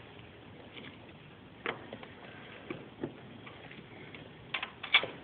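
Scattered light clicks and taps of tools and metal parts being handled while the AC line fitting is refitted to the compressor. There are a few isolated clicks, then a quick cluster of sharper ones near the end.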